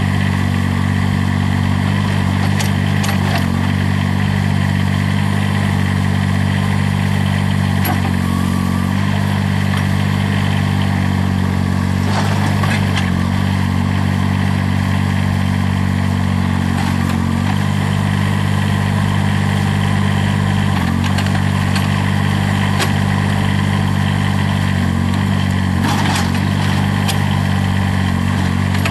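Kubota three-cylinder turbo diesel of a Terramite T9 tractor loader backhoe running steadily while the machine works, with a few brief dips in pitch and occasional light clanks.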